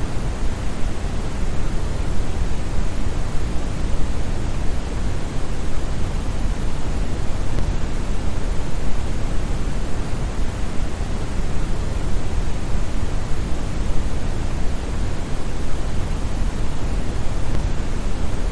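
Brown noise: a steady, deep hiss with most of its energy in the bass and little in the highs, like a large waterfall heard muffled.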